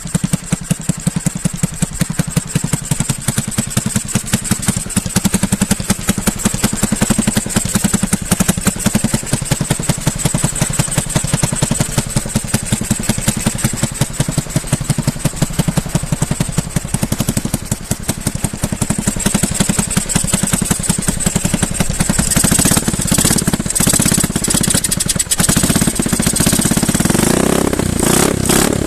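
Engine of a home-built wooden motorcycle running cold and sounding angry, with a steady, rapid firing beat. About three-quarters of the way in it revs up and grows louder.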